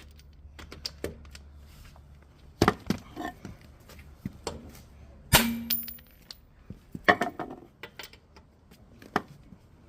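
Scattered metallic clinks and knocks of tools and metal parts being handled, one knock about five seconds in ringing briefly.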